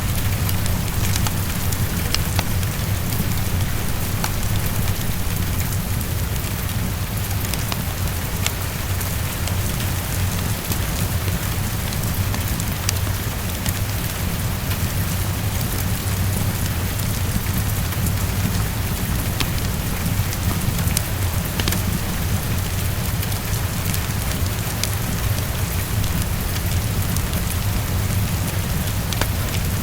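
Heavy rain falling steadily against a window, with a steady low rumble beneath it and scattered sharp crackles from a wood fire.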